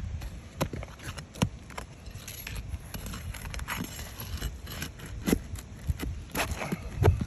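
Irregular taps, knocks and scrapes of work on an asphalt shingle roof: footsteps and shingles being handled, over a low rumble.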